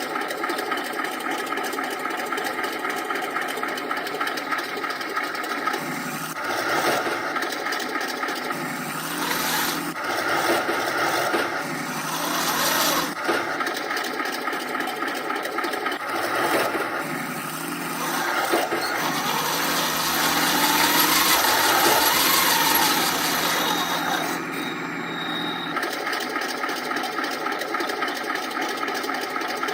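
An RC model tank's Elmod Fusion ECO sound unit plays a sampled KV-2 tank engine through its speaker. The engine idles steadily, then rises and falls as the tank drives. Wavering track squeals come through near the two-thirds mark before it settles back to idle.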